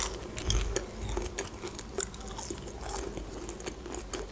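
Close-miked chewing of a battered onion ring: irregular small crunches and wet mouth sounds.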